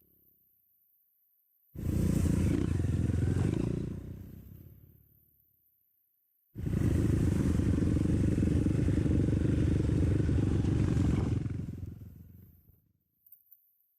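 Dirt bike engine running in two stretches: each starts suddenly, about two seconds and six and a half seconds in, then fades away to quiet.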